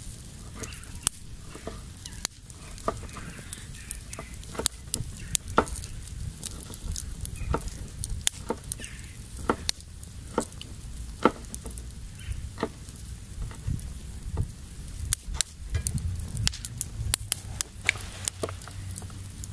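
Campfire crackling: irregular sharp pops and snaps over a steady low rumble and a faint hiss.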